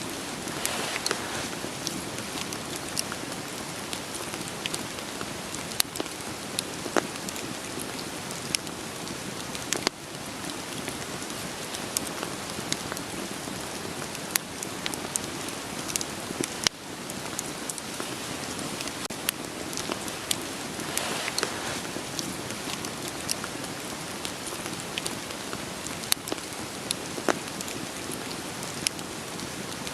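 Steady rain falling, an even hiss, with a wood fire crackling over it: sharp, irregular pops of burning firewood.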